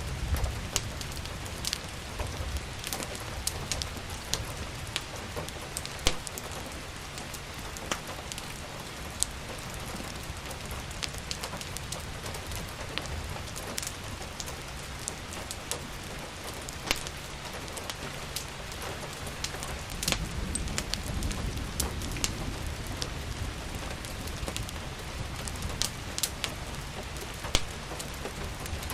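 Steady rain falling, with the sharp crackles and pops of a wood fire in a fireplace scattered throughout. A low rumble swells about twenty seconds in.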